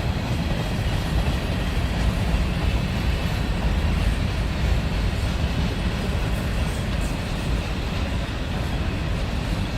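Freight train cars rolling slowly past, a steady low rumble of wheels on the rails.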